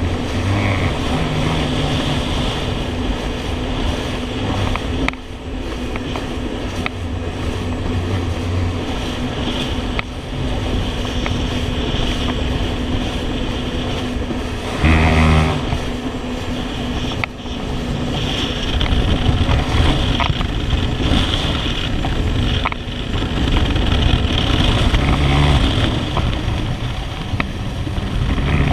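Jet ski engine running steadily under way, with the rush of water and spray around the hull. A short, louder sound comes about halfway through.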